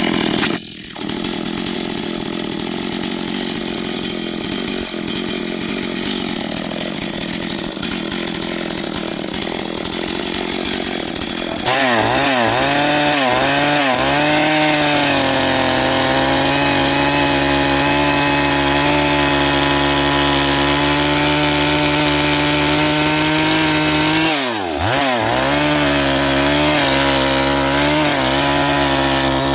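Two-stroke chainsaw running at high revs. The sound changes abruptly about twelve seconds in to a louder, steadier engine note, whose pitch sags briefly a few times and drops deeply once near the end, as the saw bogs under load in the cut.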